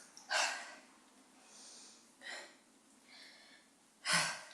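A woman breathing hard from the exertion of squats: a series of short, sharp breaths, about one a second, the loudest about half a second in and near the end.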